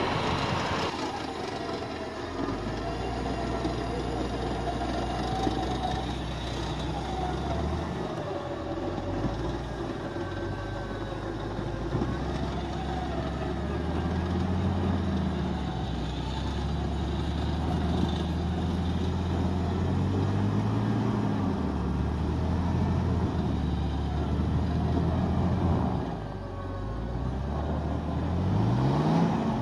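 A 4x4's engine running under load, its pitch rising and falling as the throttle changes. It revs up sharply near the end.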